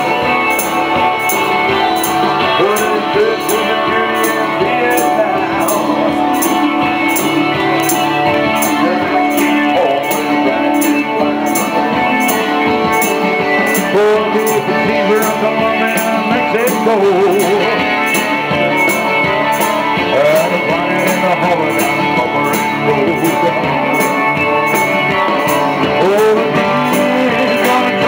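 Live band music with guitar, a steady beat and some singing.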